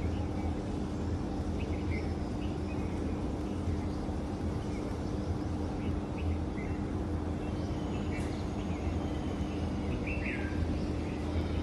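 Outdoor morning ambience: a steady low hum and even background noise, with a few short bird chirps now and then.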